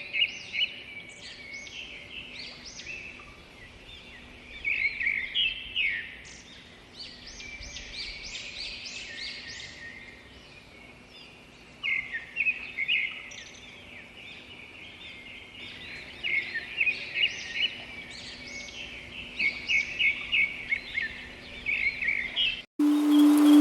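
Wild birds calling, bursts of quick repeated chirps and trills coming and going, over a faint steady hum. Near the end the sound cuts off suddenly and music with a deep held tone begins.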